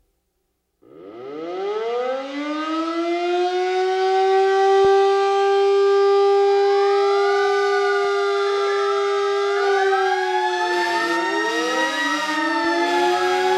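Air-raid siren winding up about a second in and holding a steady wail, joined from about seven seconds in by further siren tones rising and falling over one another.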